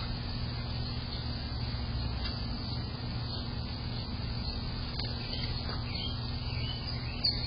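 A steady low hum with a thin high whine over it, and a few faint bird chirps about five to six seconds in.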